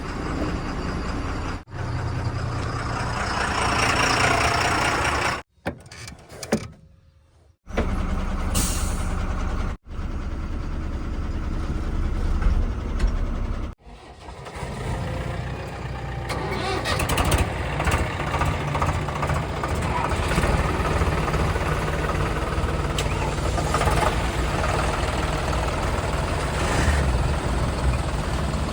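Heavy diesel engines of a backhoe loader and tipper trucks running at work, in several short clips joined with abrupt cuts and a brief silent gap about six seconds in.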